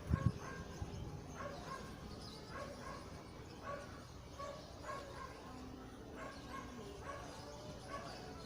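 A dog barking over and over, short yelping barks about once or twice a second, with a low thump right at the start.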